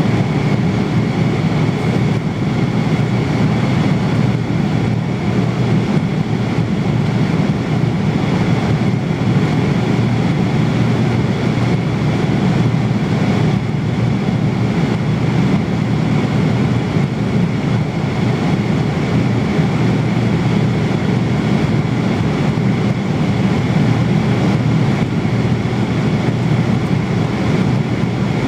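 Airliner cabin noise in flight: the steady low roar of engines and airflow, even throughout with no change.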